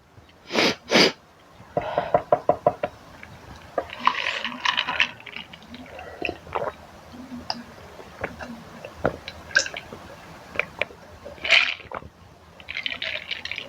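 Eating sounds from a bowl of spicy instant noodles: cutlery knocking against the bowl, with noodles being slurped and chewed in scattered spells. Two loud sharp bursts come about a second in, followed by a quick run of about seven ticks.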